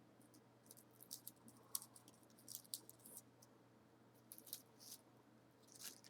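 Faint, irregular small clicks and crackles, a dozen or more scattered through, over a low steady hum.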